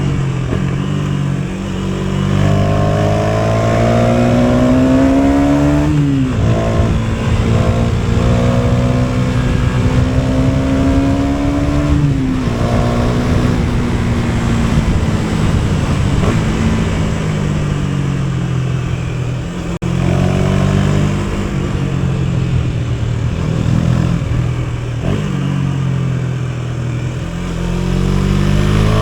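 KTM Duke 250's single-cylinder four-stroke engine under way, revving up through the gears: the pitch climbs and drops sharply at each upshift, about 6 and 12 seconds in, then eases off and builds again in two more climbs near the end.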